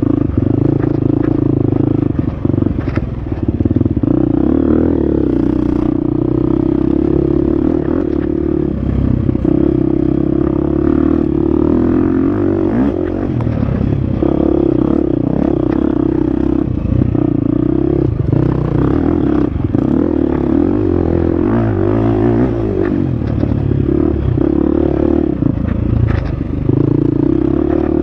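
Husqvarna FX 350 four-stroke single-cylinder dirt bike engine running hard on a trail, its note rising and dipping with the throttle, with frequent clatter and knocks.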